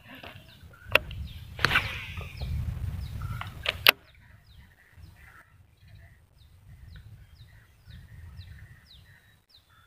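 A few sharp clicks and knocks over low rumbling handling noise for about four seconds. Then a small animal gives short, high, falling chirps, about two a second.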